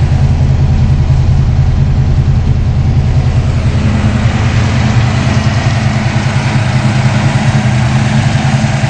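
A 1968 Plymouth Barracuda's 416 cubic-inch Mopar V8, with a Comp 274S cam, TTI headers and X-pipe and an open-element air cleaner, idling steadily with a fast, even exhaust pulse.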